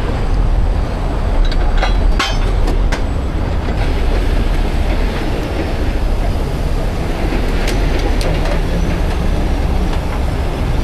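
Heavy diesel engine of a tow truck running steadily, with a few sharp clanks about two seconds in and again near eight seconds.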